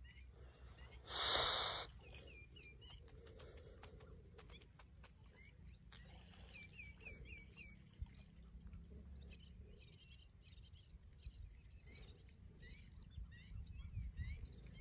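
Birds calling outdoors: short hooked chirps in quick runs of about four, then scattered high chirps, over a low steady rumble like wind on the microphone. About a second in, a loud harsh burst of sound lasts under a second, and there is a sharp thump at the very end.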